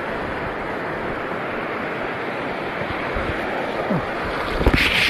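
Steady rush of surf and wind on the microphone, with a louder burst of noise and a few low thumps near the end.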